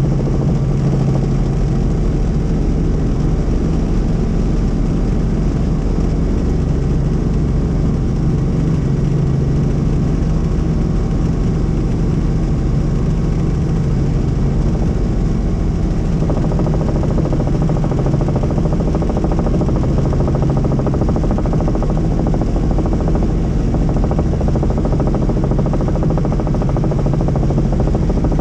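Helicopter in flight: steady engine and rotor noise, a constant drone with a low hum that swells and fades every few seconds.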